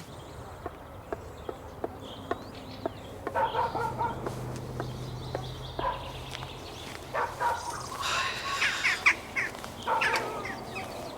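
Village yard sounds: chickens clucking and small birds chirping, with soft regular clicks about three a second in the first few seconds.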